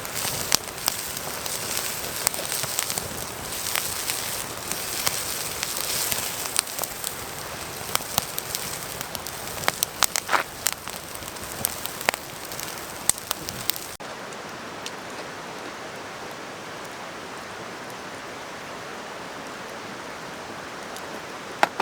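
Wood fire crackling with irregular sharp pops over a steady hiss. About two-thirds of the way through it cuts off suddenly to the steady, even rush of a mountain stream.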